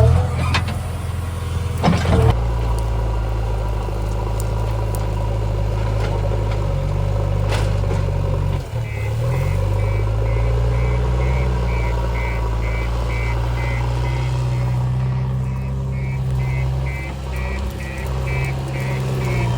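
Heavy diesel engine running steadily, its pitch shifting with load about halfway through, when a reversing alarm starts beeping about twice a second.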